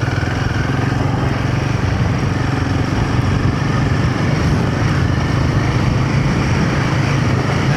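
Royal Enfield Himalayan 450's single-cylinder engine running steadily as the motorcycle rides along a dirt track.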